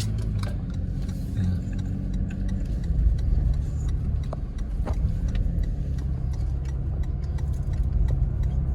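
Car engine and road noise heard from inside the cabin while driving, a steady low rumble with a few faint clicks.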